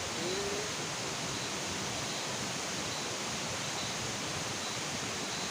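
Steady, even hiss of outdoor background noise, with faint short high chirps repeating through it and a brief faint gliding tone at the start.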